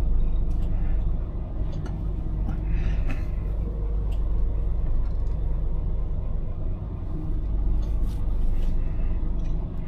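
Scania lorry's diesel engine running steadily with road rumble, a continuous low drone.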